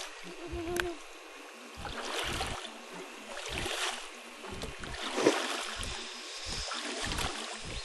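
Paddle strokes in water, each a splash and swish, about every second and a half.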